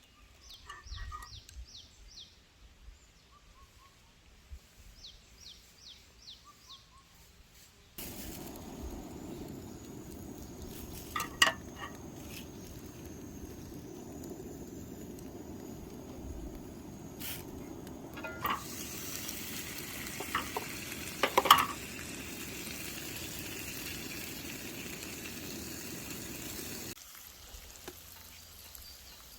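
Small birds chirping in two quick runs of falling notes. About eight seconds in, food starts sizzling steadily in a pan, with a few sharp clinks of a utensil against the pan, until the sizzling cuts off near the end.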